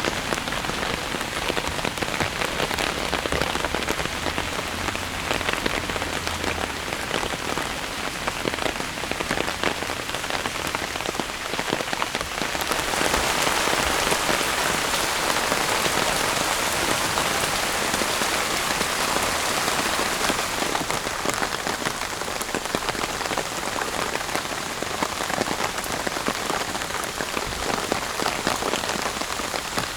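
Steady rainy-season downpour, with many individual drops pattering close by. It grows somewhat louder and brighter for several seconds in the middle, then eases back.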